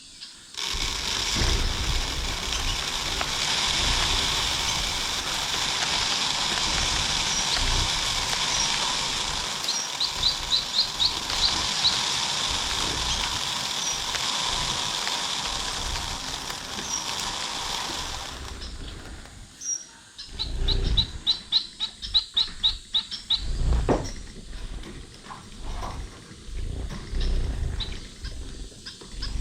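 Caged finches calling, with rapid high trills of quick repeated notes, twice. For most of the first two-thirds a steady rushing noise runs under the calls; after that it stops and low knocks and flutters come through.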